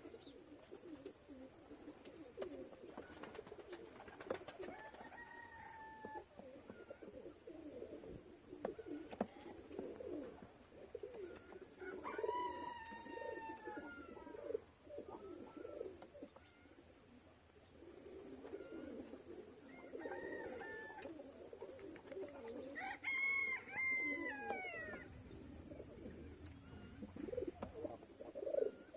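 Domestic pigeons cooing: a faint, low, pulsing burble that goes on throughout. Three times, a longer, higher call with a falling pitch rises above it from another bird.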